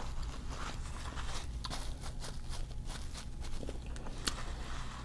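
Close-miked chewing and soft mouth smacks while eating seafood-boil food, a scattered series of small clicks over a steady low hum.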